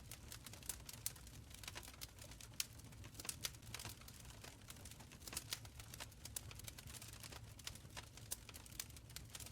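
Wood fire crackling in a stone fireplace: irregular small pops and snaps, several a second, with a sharper pop about two and a half seconds in, over a low steady rumble of the flames.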